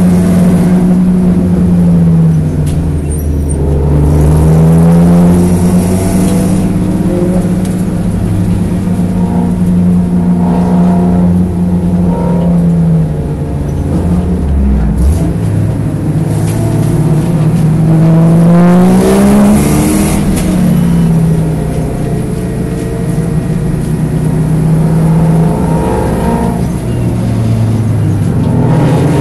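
1987 Porsche 924S's 2.5-litre four-cylinder engine running hard on a race circuit. Its pitch drops and climbs again several times as it comes off the throttle and accelerates back up, with a low thud about halfway through.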